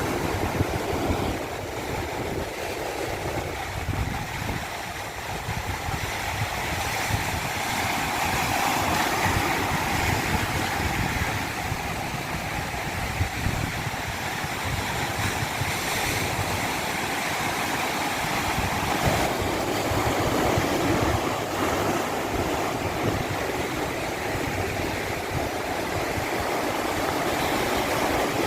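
Stream water rushing steadily down a cascade, a continuous roar of running water that eases a little a few seconds in and then builds again.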